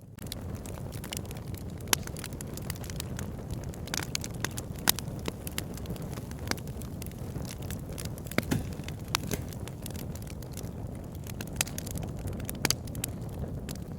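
Wood fire burning in a fireplace: a steady low rumble of flames with scattered sharp crackles and pops from the burning logs, a few louder pops every few seconds.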